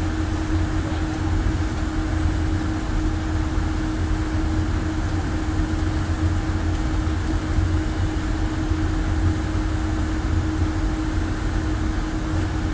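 Steady drone of a destroyer's machinery and ventilation, a deep rumble with a constant low hum and a faint high whine above it, unchanging throughout.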